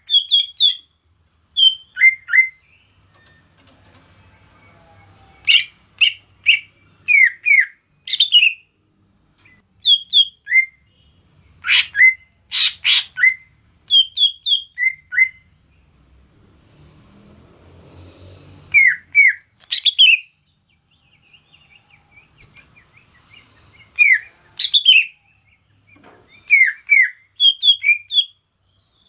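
Cucak ijo (green leafbird) calling in short bursts of two or three quick down-slurred whistled notes, separated by pauses of a few seconds, over a steady high hiss.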